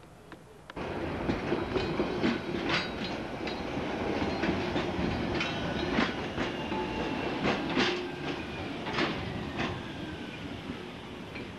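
An Aigle–Leysin electric railcar passing close by. Its wheels click sharply and repeatedly over the track under a steady running rumble and hum, with a faint wheel squeal.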